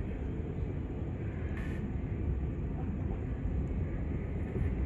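Passenger train running on the rails, heard from inside the carriage: a steady low rumble, with a brief higher noise about a second and a half in.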